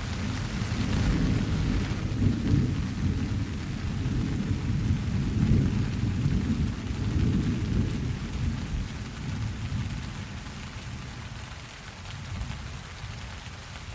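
Rolling thunder over steady rain: a low rumble that starts suddenly, swells for several seconds and dies away by about ten seconds in, with rain hissing throughout.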